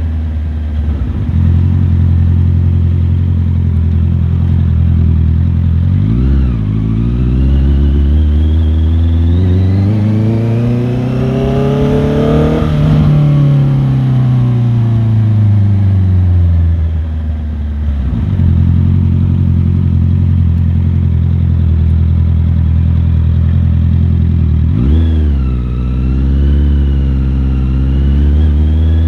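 Motorcycle engine under way, heard from on the bike: it runs steadily, climbs in pitch to a peak near the middle and falls back, with quick dips and rises in pitch about six seconds in and near the end.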